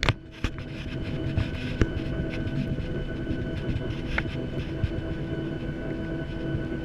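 Boeing 737-800's CFM56-7B turbofan engines running at a steady pitch, heard from inside the cabin: a constant whine over a low rumble, with a few light knocks and rattles.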